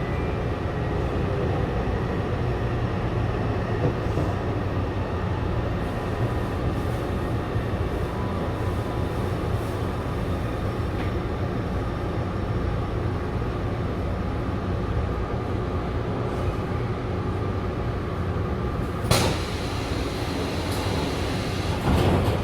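Taipei Metro train running between stations: a steady rumble of wheels and motors on the track, with a sharp click about two-thirds of the way through and a brief louder swell near the end.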